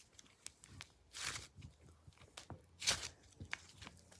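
Sticky slime being squeezed and pulled apart in the hands, giving a few short sticky crackles about a second and about three seconds in, with small clicks and pops between.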